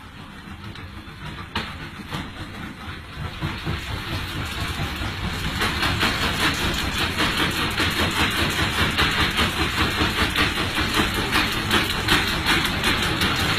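Worn-out washing machine spinning up: a fast, rhythmic clatter of knocks that grows louder over the first several seconds, then runs on steadily.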